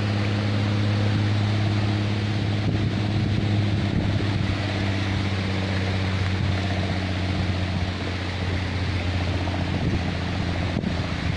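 An engine running steadily with a low hum, under a rush of wind noise.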